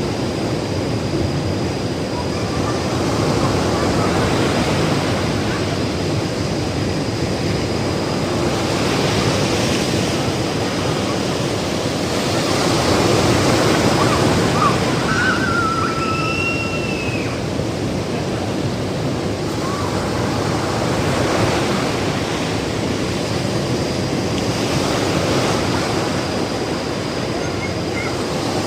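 Ocean surf breaking on a beach: a continuous wash of waves that swells and eases every few seconds.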